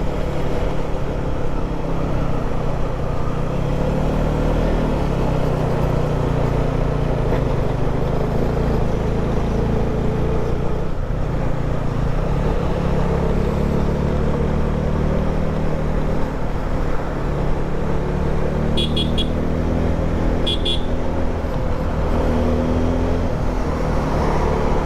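Motorcycle engine running along the road under a steady rush of wind noise, its pitch dipping about halfway through and then climbing near the end. Two short high beeps sound near the end.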